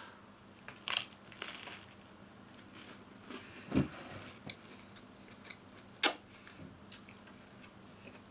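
A person biting into and chewing a grilled cheese sandwich on toasted bread. There is a crunch about a second in, then quiet chewing with a couple of sharper mouth sounds.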